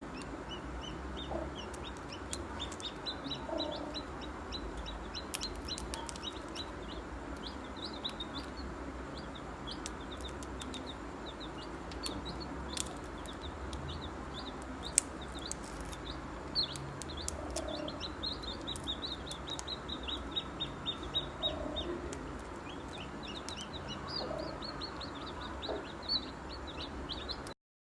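Many small birds chirping in quick, overlapping high calls throughout, with a few lower, softer calls mixed in.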